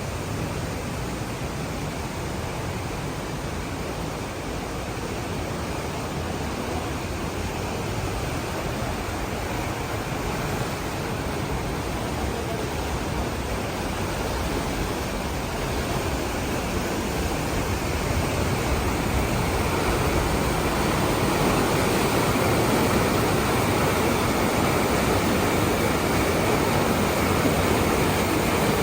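Steady rush of falling water from a waterfall, growing louder over the second half.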